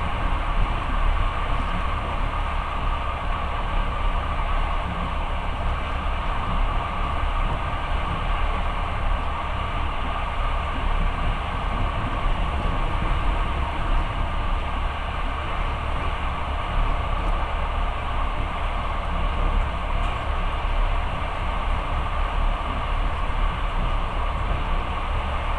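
Long-distance passenger train in motion, heard from inside the carriage: steady running noise of the wheels on the rails.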